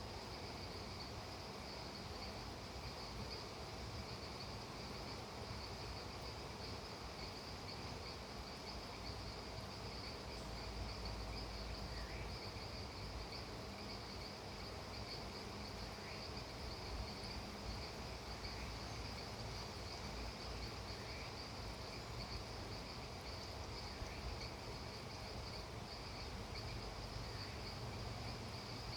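Steady chorus of crickets and other insects: a constant high trill that never pauses, over a low, even hiss.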